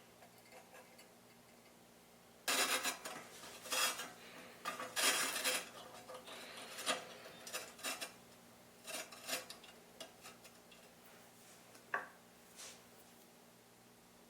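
Small metal tools and pieces clinking and scraping as they are handled: a quick, uneven run of clinks and short scrapes starting about two seconds in, thinning out to a few single clicks later on.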